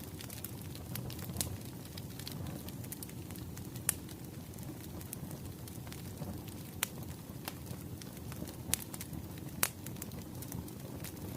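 Wood fire crackling: a steady low rumble of burning logs with sharp pops scattered throughout, a few louder pops standing out near four, seven, nine and ten seconds in.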